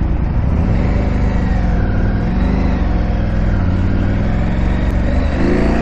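KTM 890 Adventure R's parallel-twin engine running under riding load off-road, its pitch rising and falling gently with the throttle.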